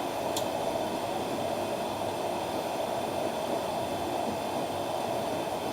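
Newly lit KC-1104 wick kerosene heater burning with a steady rushing hiss while it warms up after its first lighting. There is a small click under half a second in.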